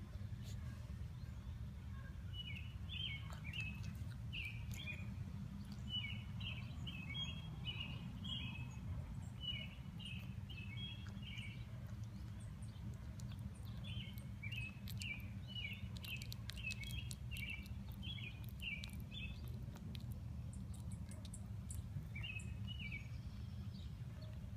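Small bird chirping in quick runs of short, high notes: two long runs and a brief one near the end. A steady low hum sits beneath.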